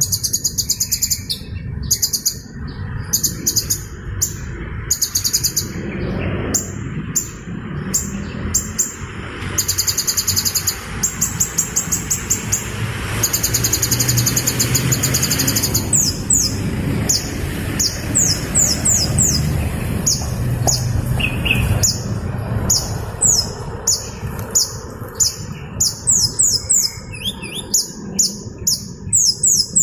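Hummingbird chirping: runs of very high, rapid twittering trills and quick falling chip notes in repeated bursts, over a steady low background hiss.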